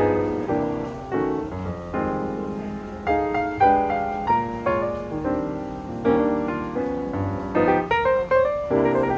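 Background piano music: a gentle melody over chords, notes struck and left to ring.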